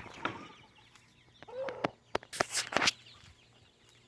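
Young chickens in a pen giving short calls and clucks, one call rising and falling about a second and a half in. A few sharp knocks or rustles come between about two and three seconds.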